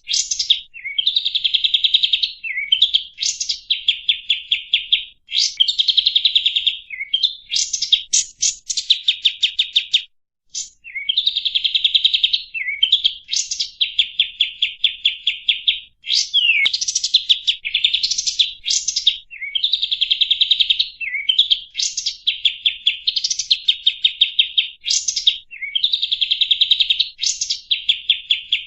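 Songbird singing fast rolling trills: phrases of one to two seconds made of quickly repeated chirps, about ten a second, each phrase set off by a short upward-sweeping note, over and over with a brief pause about ten seconds in.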